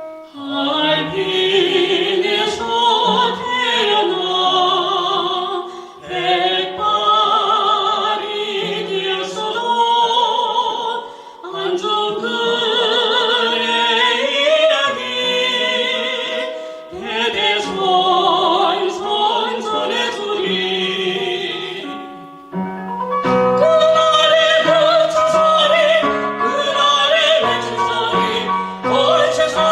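A sung Korean ballad in classical, opera-like style: a voice with strong vibrato sings long phrases over piano accompaniment. About 22 seconds in, the music dips briefly, then the accompaniment comes back stronger with steady chords and a bass line.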